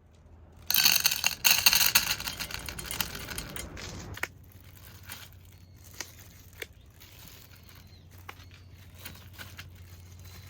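Plastic packaging crinkling as it is handled, loudest during the first few seconds and then going on as softer rustles and clicks, over a steady low hum.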